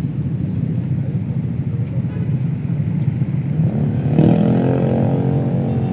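City street traffic with a steady low rumble of engines and tyres. About four seconds in, a motor vehicle's engine passes close by, rising in pitch and becoming the loudest sound.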